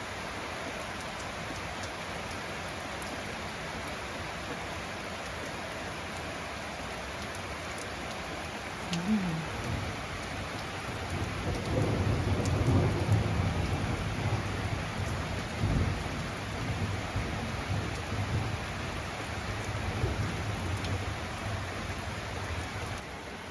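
Steady rain falling, with a long roll of thunder that starts rumbling about nine seconds in, builds to its loudest a few seconds later and slowly fades.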